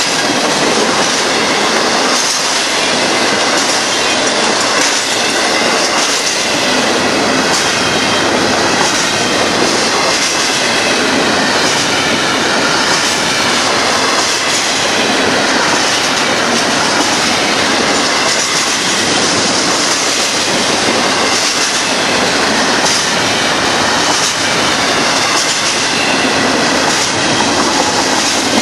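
Union Pacific container train's freight cars rolling past, a steady loud wheel-on-rail noise with scattered clicks over rail joints and a faint wavering wheel squeal.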